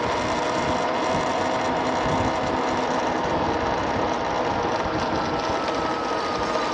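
MX Sting electric motorcycle's motor whine while riding, a steady tone drifting slowly in pitch, over wind rushing across the microphone.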